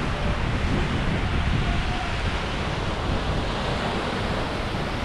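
Sea waves washing onto a beach in a steady, continuous surf, with wind buffeting the microphone.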